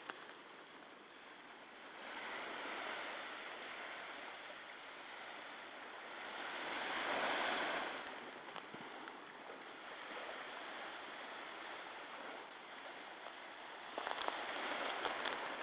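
Sea waves breaking and washing ashore, the surf swelling twice, most strongly about seven seconds in. A few crackles near the end.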